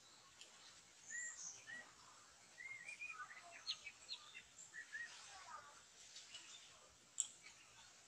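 Songbird calls: a run of short, arched chirps and quick upward whistles, faint, with one sharp click near the end.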